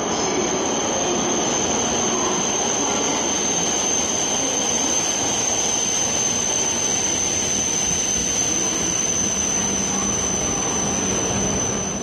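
E5 series Shinkansen train running in along the platform: a loud, steady rushing rumble with a thin, steady high-pitched squeal over it.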